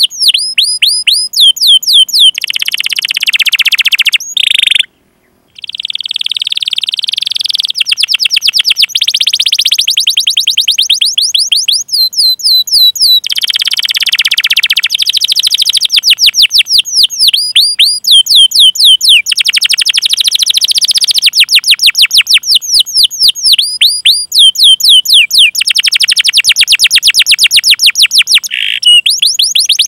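Domestic canary singing: runs of quick falling 'cuit cuit' notes, several a second, alternating with fast rolling trills. The song cuts out briefly about five seconds in.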